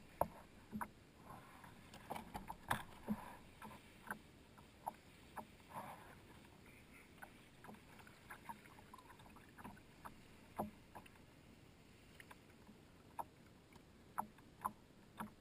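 A kayak being paddled: faint, irregular small knocks, clicks and splashes from the paddle and hull at the water.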